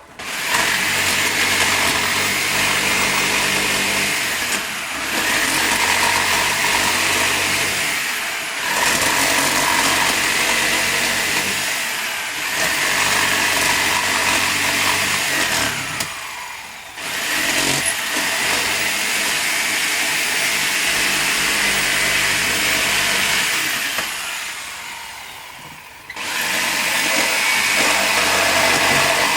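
Electric power tool running and cutting wood in long bursts, its note sagging and picking up every few seconds. It stops briefly about 16 seconds in, then starts again, and it winds down near the end before starting up once more.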